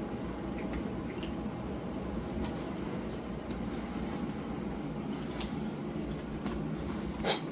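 Steady low mechanical hum, with a few faint clicks and one sharper click near the end.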